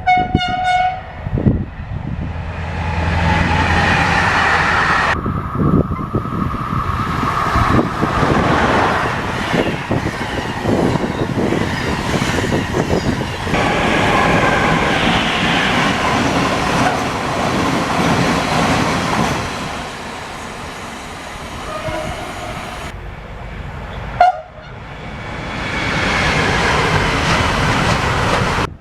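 Trains passing at speed, with wheels clattering rapidly over the rail joints. A train horn blast cuts off about a second in, and there is a short horn toot a few seconds before the end.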